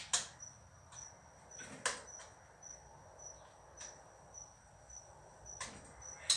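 An insect, most likely a cricket, chirping steadily in short high pulses about twice a second, with a few sharp metallic clicks from hand tools on metal.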